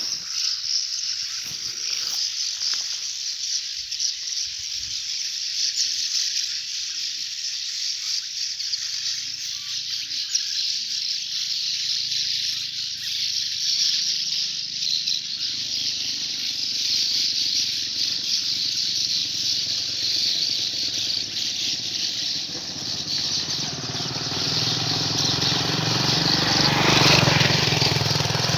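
A flock of small birds nesting in a bridge, chirping and twittering continuously as a dense, high-pitched chorus. A low rumble builds in the second half and is loudest near the end.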